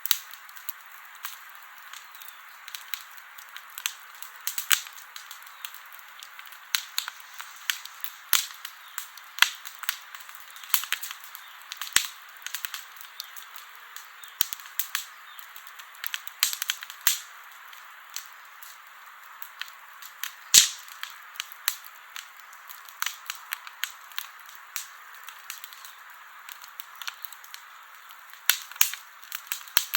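Wood campfire crackling, with irregular sharp pops and snaps of burning wood over a soft steady hiss; one pop about two-thirds of the way through is the loudest.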